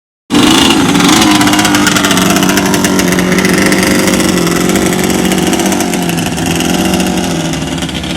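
Vehicle engine running at a steady speed, its pitch sagging slightly over the seconds. It cuts in abruptly after a brief silence.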